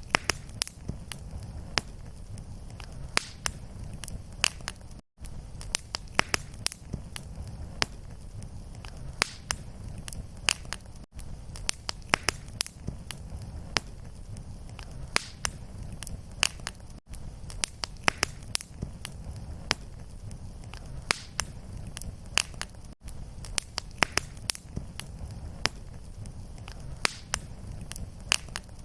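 Wood fire in a fireplace crackling, with frequent sharp pops over a low steady rumble of the flames. The sound cuts out briefly about every six seconds.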